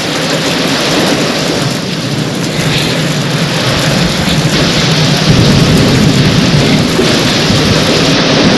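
Heavy rain falling steadily, with a low rumble of thunder underneath that grows louder about halfway through.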